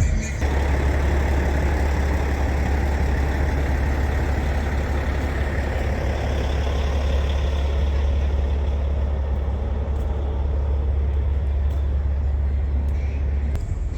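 Heavy truck's diesel engine running steadily at idle: a deep, even rumble that settles in just after the start and eases near the end.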